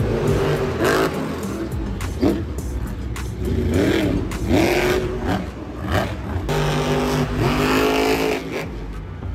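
Monster truck engines revving hard again and again, the pitch swooping up and down several times, then holding a steady high note for about two seconds before falling away.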